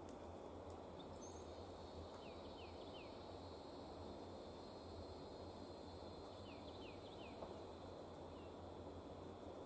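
Faint bird calls over quiet outdoor background: short down-slurred chirps in runs of three or four, heard twice, with a few thin high notes about a second in.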